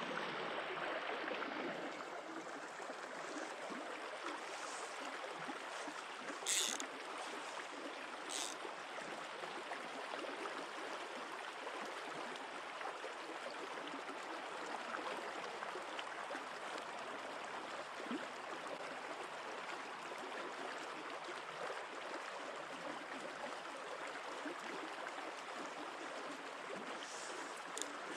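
A mountain stream flowing with a steady rushing of water. Two brief high-pitched sounds come about six and eight seconds in.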